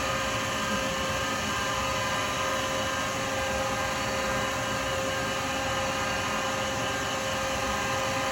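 Wood lathe running steadily, a constant motor hum with a fixed whine.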